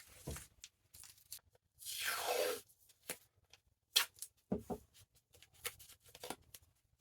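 Roll of cheap painter's tape being ripped, with one loud rip about two seconds in and small crackles and clicks of the tape being handled around it. This tape tears badly, coming off in small pieces rather than cleanly.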